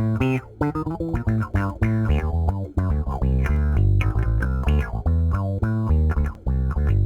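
Electric bass played through an envelope filter pedal in low-pass mode, a fast run of hard-plucked notes, each with a quick wah-like sweep as the filter opens on the attack.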